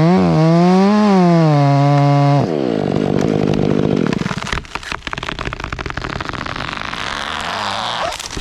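Large chainsaw running at full throttle in a felling cut, its pitch dipping and rising, then backed off about two and a half seconds in. A tall fir then cracks and goes over, with a run of snapping and splitting, a rising rush of branches through the air, and a sharp heavy crash near the end.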